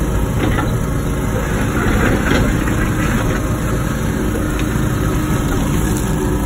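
Wacker Neuson ET145 excavator's diesel engine running steadily, with a louder patch of clatter and noise about two seconds in.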